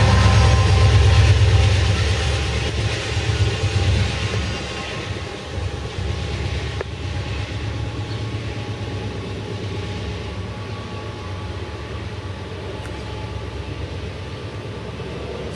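Canadian Pacific freight train's diesel locomotive passing close by. Its engine rumble is loud for the first couple of seconds, then fades over the next few seconds as it moves off, leaving a quieter, steady train rumble.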